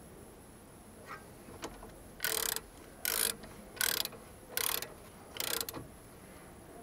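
Ratchet wrench being worked back and forth: five short rattling ratchet strokes, a little under a second apart.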